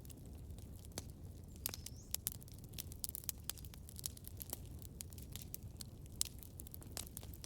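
Campfire burning, with irregular crackles and sharp pops over a low steady rumble of flames, and a brief hiss about two seconds in.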